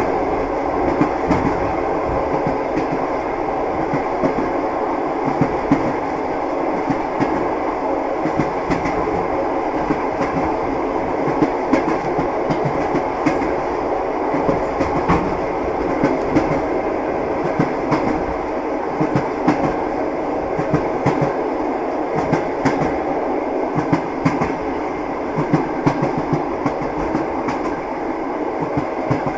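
Moving train: a steady rumble of the running railway carriage with frequent clickety-clack of the wheels passing over rail joints.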